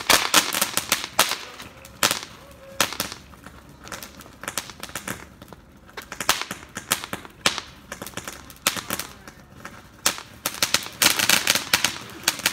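Consumer ground fireworks going off, a fast crackling of sharp cracks and pops. The cracks come in dense clusters at the start and again near the end, with sparser pops and quieter gaps between.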